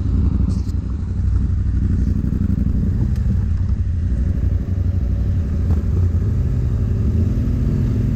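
Dirt bike engine running steadily at low revs, its pitch shifting a little up and down.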